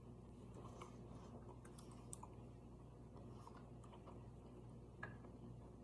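Near silence: faint chewing of a bite of bacon-wrapped fiddlehead, with a few soft clicks.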